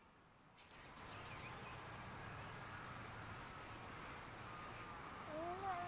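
Insects, crickets by their sound, chirring in a steady high-pitched drone that comes up about half a second in. Near the end a short wavering call or voice is heard.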